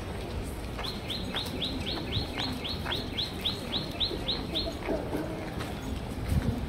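A bird calling a quick, even run of about fifteen high chirps, about four a second, that starts about a second in and stops after about four seconds.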